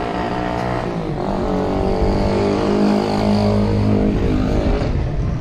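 A motor vehicle engine running close by. Its pitch dips about a second in, then holds steady before it fades out near the end.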